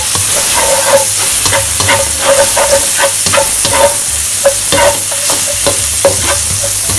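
Crushed garlic sizzling in melted Planta margarine in a non-stick wok, with a nylon spatula scraping and tapping the pan over and over as it is stirred.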